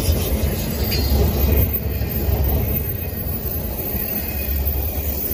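Double-stack intermodal container cars rolling past on steel wheels: a steady, heavy low rumble of wheels on rail.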